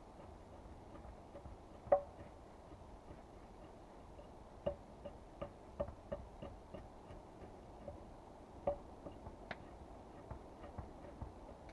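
Irregular light knocks and clicks, sometimes two or three a second, with one louder knock about two seconds in.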